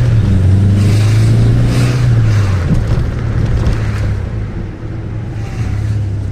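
Alfa Romeo 145's 1.6 flat-four boxer engine through a Ragazzon Sport exhaust, holding a steady drone under load for about two and a half seconds, then backing off to a quieter run with road and wind noise, picking up slightly near the end.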